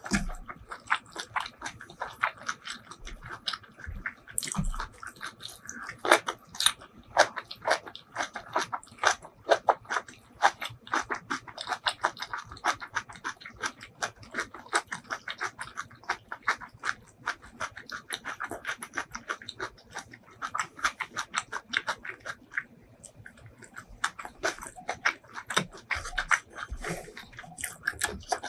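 Close-miked chewing of a mouthful of curried rice and beef tripe: quick wet mouth clicks and smacks, many a second, easing off briefly a little after two-thirds of the way through before picking up again.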